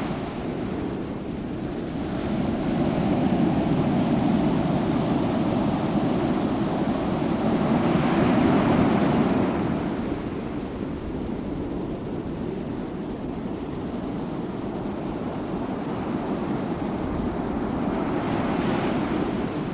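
Sea waves washing onto the shore in a continuous surge, one wave swelling up and breaking about eight seconds in and another building near the end.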